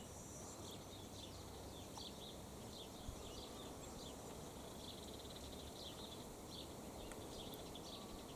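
Faint, scattered chirps of small birds, many short notes, over a steady quiet background hiss.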